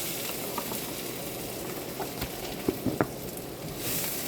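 Mushrooms sizzling as they fry in a skillet with onions and shallots, a steady hiss with a few light clicks about two to three seconds in.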